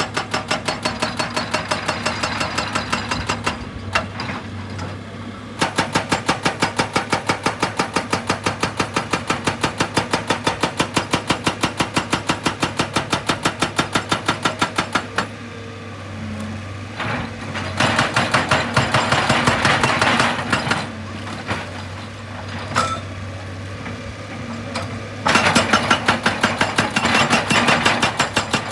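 Heavy diesel rock machine hammering rock in rapid, evenly spaced blows over a steady engine hum. The hammering stops and restarts several times, with stretches of engine-only running between bursts.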